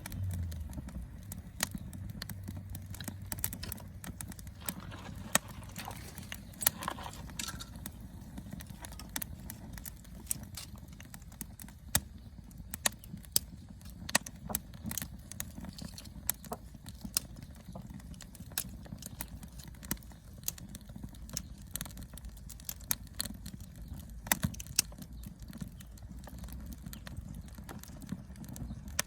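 Wood campfire crackling, with irregular sharp pops over a low, steady rumble.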